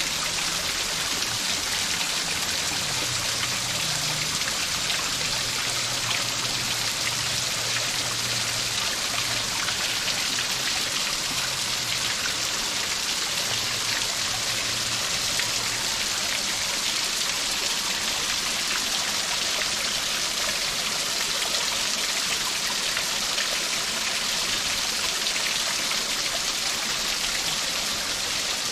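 Running water, a steady rush like a stream or small waterfall, even and unbroken throughout.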